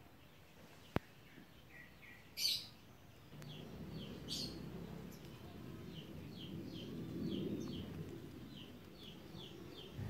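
Small birds chirping in runs of short falling notes, about three a second. Under them is a low rustle of leafy branches being handled, with a sharp click about a second in and two brief loud rushes of noise.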